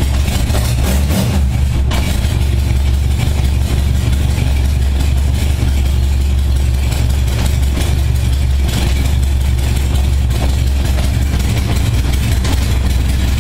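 1978 Honda Gold Wing's flat-four engine idling steadily and evenly shortly after a cold start, its carburetors freshly synchronized.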